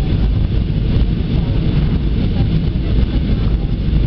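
Airbus A320 cabin noise: the steady, even rush of the engines and airflow heard from inside the airliner in flight, heaviest in the low range.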